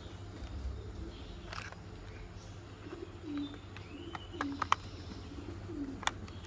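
Sharp plastic clicks as a toy car's upper body is pressed onto its lower chassis, the loudest about three-quarters of the way through. Low, short cooing bird calls repeat in the background.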